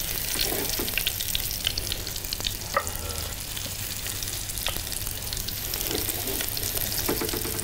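Food sizzling as it fries: a steady hiss with a few scattered small crackles and clicks.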